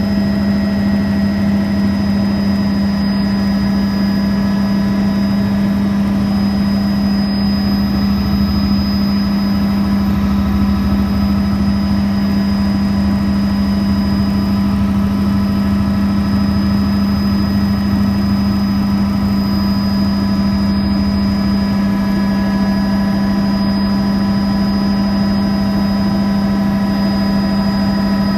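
Helicopter running steadily in flight: an even, unchanging drone with one strong low hum.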